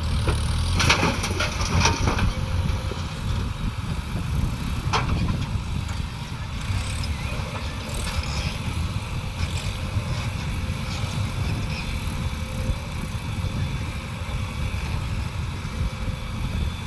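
Heavy diesel machinery engine running steadily with a low rumble, with a few short sharp clatters about a second in and one around five seconds in.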